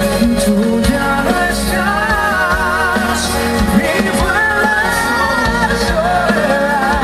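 Live rock band playing, with a wavering, sustained melody line, possibly a voice or lead guitar, over bass and drums.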